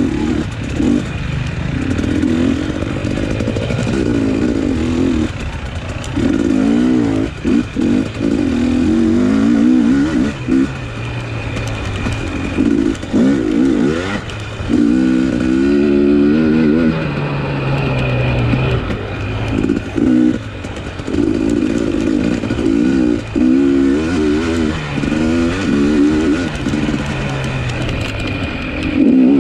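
Off-road motorcycle engine revving up and down hard as it is raced, its pitch climbing and dropping over and over with short throttle chops, heard close from the rider's own bike.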